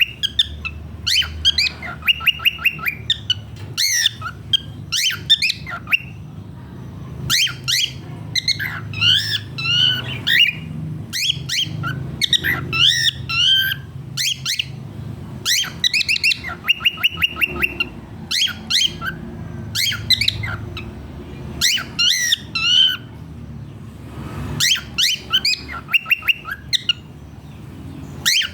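Cockatiel calling over and over in quick clusters of chirps and squawks, many of them gliding up and down in pitch.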